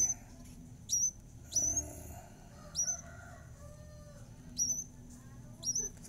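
A small bird gives about six short, high, sharp chirps at irregular intervals. Each chirp drops quickly in pitch and then hooks back up.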